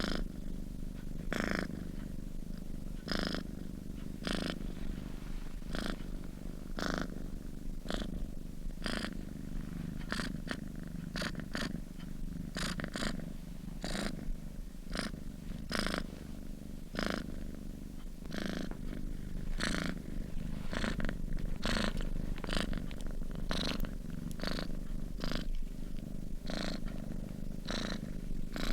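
Domestic cat purring in its sleep: a steady low rumble that pulses with each breath, about one to two pulses a second.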